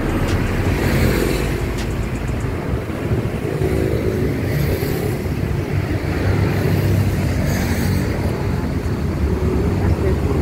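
Motor vehicle engine noise, a steady low running sound typical of road traffic with cars and motorcycles.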